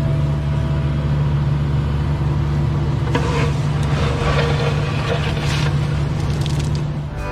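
Cat mini excavator's diesel engine running steadily, with a few short scrapes of the bucket in dirt about three to six seconds in.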